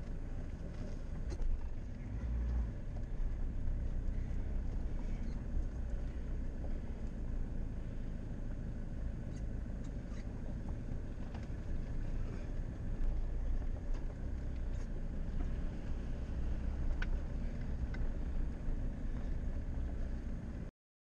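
Land Rover engine running at low speed, heard from a camera mounted on its bonnet: a steady low rumble with a few faint ticks, which cuts off abruptly near the end.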